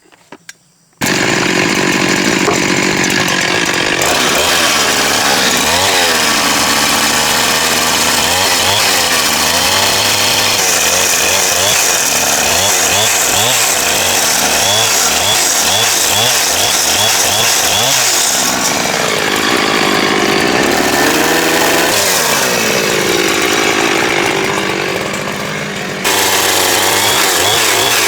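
Chainsaw cutting timber, its pitch rising and falling as the chain loads in the wood. It starts abruptly about a second in, eases off briefly near the end, then comes back at full speed.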